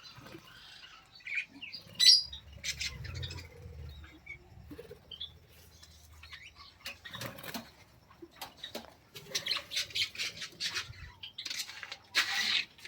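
Small cage birds chirping now and then, with short bursts of wings fluttering; the loudest flutter comes near the end.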